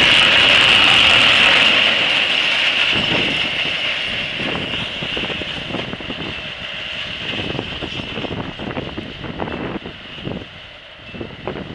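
Freight train of tank wagons rolling past on the rails, loud at first with a high-pitched hiss from the wheels, then fading steadily as the tail of the train moves away down the line.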